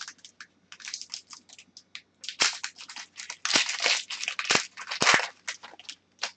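Crinkling and rustling of trading cards and plastic being handled, a busy run of short crackles that is densest in the middle few seconds.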